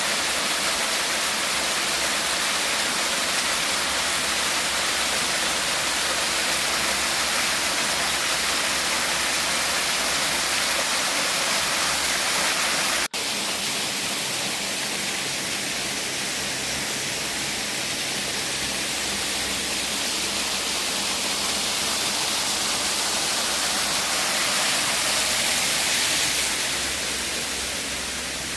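Steady, loud rushing noise, broken by a brief cut about thirteen seconds in.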